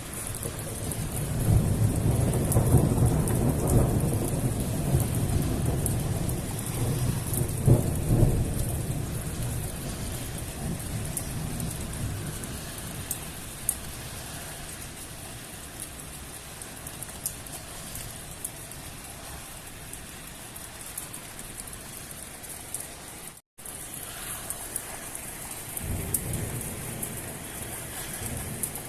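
Heavy rain pouring steadily, with a long low rumble of thunder that swells in the first seconds and peaks again about eight seconds in. A fainter rumble comes near the end, and the sound cuts out for an instant past the middle.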